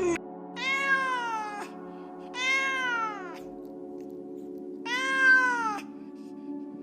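Cat meowing three times: long drawn-out meows of about a second each, each rising then falling in pitch.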